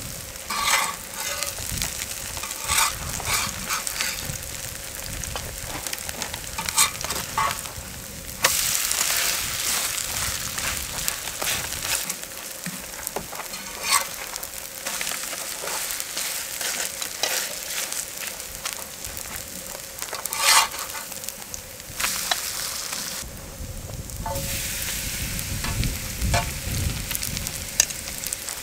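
Vegetable pancakes (jeon) frying in oil, with a steady sizzle that grows louder at times, and a spatula repeatedly scraping and tapping the pan.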